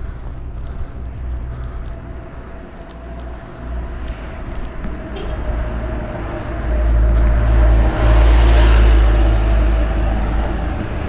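A motor vehicle on the road approaching and passing close by. Its engine and tyre noise swells from about six seconds in and is loudest a couple of seconds later.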